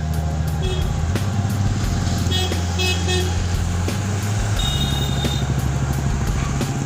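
Road traffic: vehicle engines running steadily, with a quick run of short horn toots about two and a half seconds in and a longer horn blast around five seconds in.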